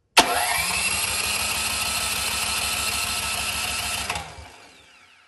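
Cub Cadet snowblower's electric starter motor cranking the engine for about four seconds: a whine that rises quickly as it spins up, holds steady, then stops and winds down. The engine turns over without catching.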